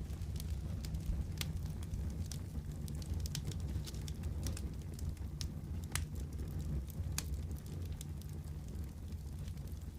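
Wood fire crackling steadily over a low rumble, with scattered sharp pops, a few louder ones about 1.5, 6 and 7 seconds in.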